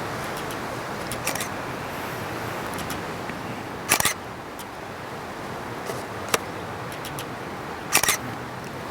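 Camera shutter firing in short bursts of several clicks, about a second in, at four seconds and at eight seconds, with a single click between, over a steady outdoor background hiss.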